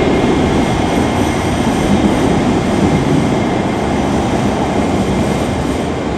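A Scotrail electric train running through the station on departure, a steady rumble of wheels on track that eases slightly near the end.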